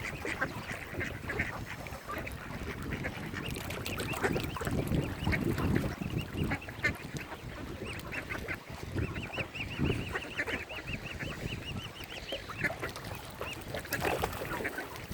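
Waterfowl calling, swans and mallard ducks, in a busy mix of short calls. A quick run of high, evenly repeated peeps comes about nine seconds in and lasts a few seconds.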